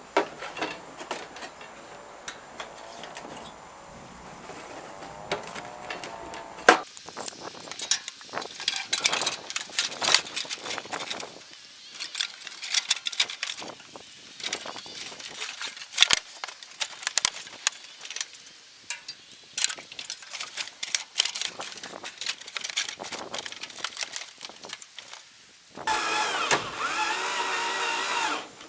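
Workshop handwork: a long run of clicks, knocks and clatter. Near the end, a small motor runs for about three seconds, its pitch wavering.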